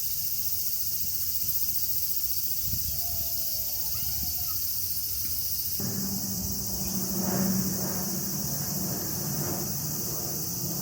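Steady high-pitched insect chorus filling the background outdoors. About halfway through, a sudden change brings in a low steady hum alongside it.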